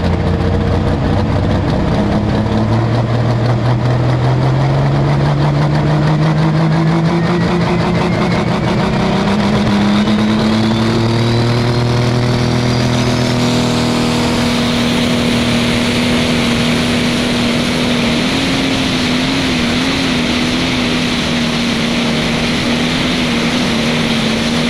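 Pro Stock pulling tractor, a John Deere 6030 with a Shipley Pro Stock diesel engine, running hard under load down the track. The engine's pitch climbs steadily, with a thin high whistle rising alongside, for about the first fourteen seconds, then holds high and steady, wavering briefly around the twentieth second.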